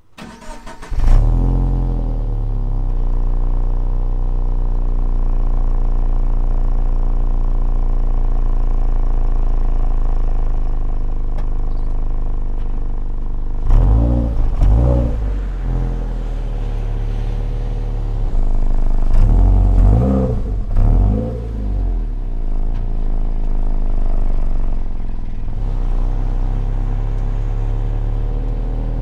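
Toyota 86's flat-four boxer engine starting up and settling into a steady idle, then revved up and down briefly about halfway through and again, in a couple of quick blips, about two-thirds of the way in.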